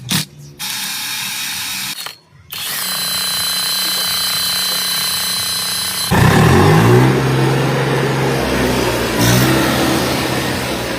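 Swaraj tractor diesel engine started about six seconds in and running, its speed rising and then settling, with a brief dip and pickup near the end. Before it, a steady high mechanical whine.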